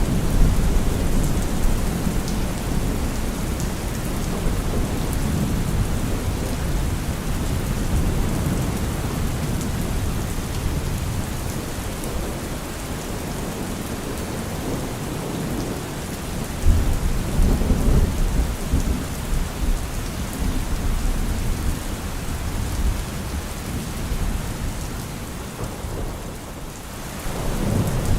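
Heavy rain falling on a car roof, with continuous low rumbling thunder. A stronger roll of thunder starts a little past the middle, and the rain and rumble briefly fade just before the end, then return.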